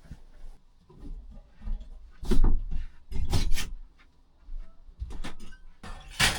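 Knocks and rubbing of things being handled and set down, with a few louder thuds about two, three and six seconds in.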